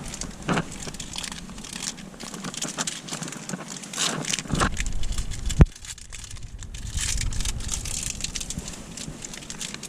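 Irregular rustling and crinkling over car road noise, with one sharp click about five and a half seconds in.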